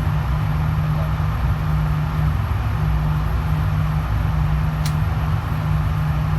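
Steady low droning hum and rumble of the indoor range's air-handling background, with one faint click about five seconds in; no gunshots.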